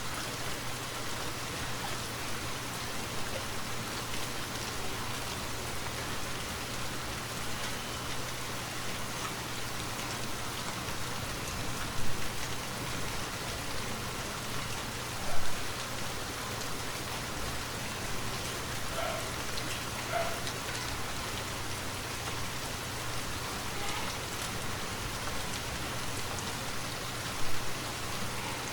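Steady rainfall falling on a forest, a continuous even hiss with a low steady rumble underneath. Three brief, sharper, louder hits stand out: one about twelve seconds in, one around fifteen seconds, and one near the end.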